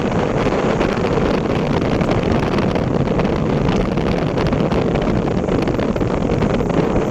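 Steady wind buffeting the microphone over the low rumble of a vehicle moving along the road.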